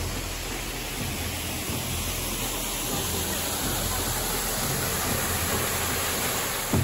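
Steady rush of a waterfall, with rain falling.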